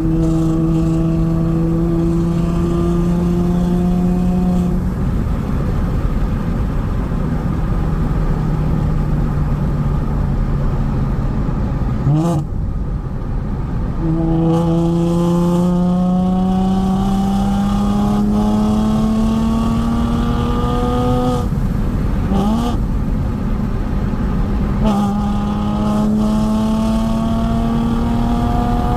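BMW engine through a Laptorr aftermarket exhaust, pulling under load as the car accelerates: the exhaust note climbs slowly in each gear and drops back at each of several gear changes.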